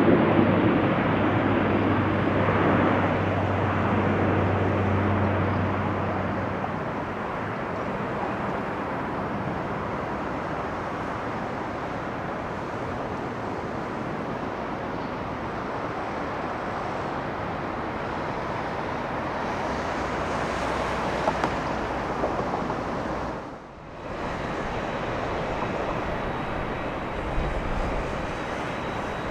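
Jet airliner engines with a steady low hum, loud at first and fading away over the first six or seven seconds. A steady wash of outdoor noise follows, briefly dropping out about 24 seconds in.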